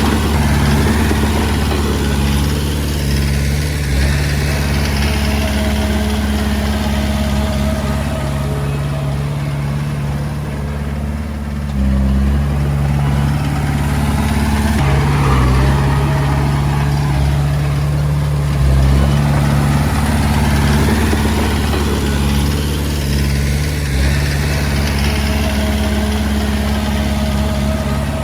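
Komatsu D20A bulldozer's diesel engine running under working load, its pitch and loudness shifting as it pushes. It eases off for a few seconds near the middle, then comes back up to full.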